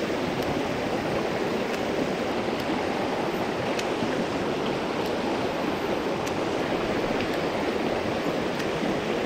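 Mountain stream water rushing steadily over rocks, with a few faint ticks scattered through it.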